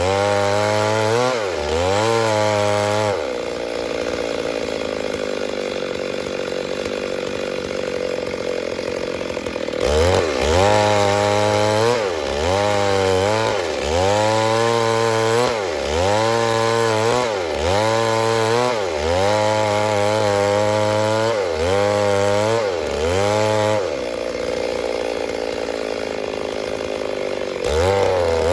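Stihl MS 382 two-stroke chainsaw running at high revs. Its pitch dips and recovers over and over, about once a second, with a steady stretch near the start and another towards the end.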